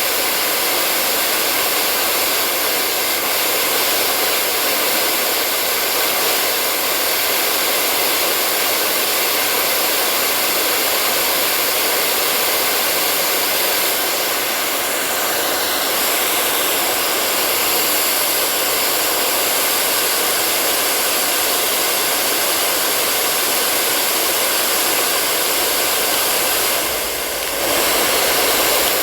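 Hair dryer blowing steadily with an even rushing hiss. Near the end it dips briefly, then comes back slightly louder with more low rumble.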